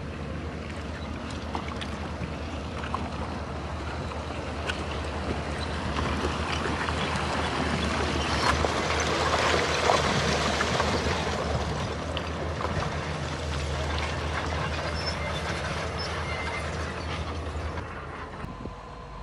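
Heavy diesel earthmoving machinery running steadily, with a rushing clatter of stone and gravel that builds to its loudest about halfway and drops away sharply near the end.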